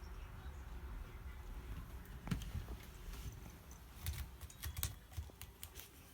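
A cat's claws scratching a scratcher, heard as a series of sharp clicking scrapes: one strong stroke about two seconds in, then a quick run of clicks in the second half.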